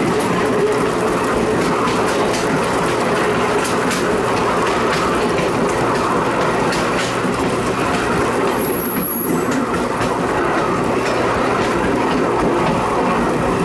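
A train rolling steadily along the track, a continuous rumble with scattered clicks of the wheels over the rail, briefly dipping about nine seconds in.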